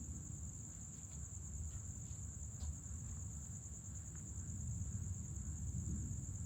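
Night insects such as crickets trill in one steady high drone, with a few faint short chirps. Underneath runs a low rumble of distant thunder, which swells toward the end.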